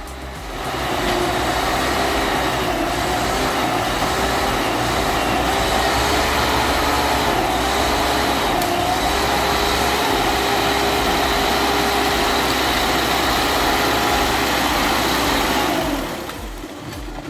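LKT 81 Turbo skidder's diesel engine running hard under load, its pitch wavering slightly up and down. It comes up loud about a second in and falls away near the end.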